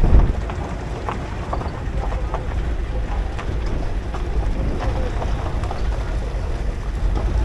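Steady low rumble of a moving tour shuttle, with wind buffeting the microphone and light scattered rattles. There is a thump right at the start.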